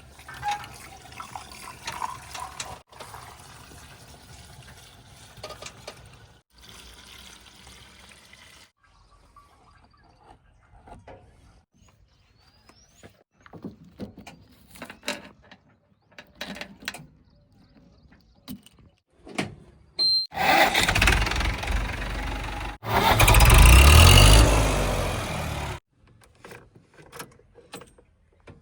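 Heavy machinery engines running in short segments that cut in and out abruptly. About two-thirds of the way in, an engine gets loud and revs up and down, then stops suddenly.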